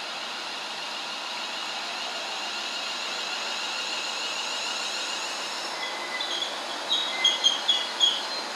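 A train running through on the rails, a steady noise of wheels and track, with a run of about five short, high-pitched wheel squeals near the end.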